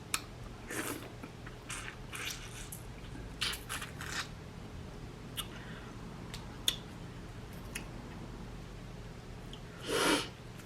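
Close-up eating of a saucy seafood boil: irregular wet squishes, bites and chewing, with a few sharp clicks. A longer, louder wet sound comes near the end.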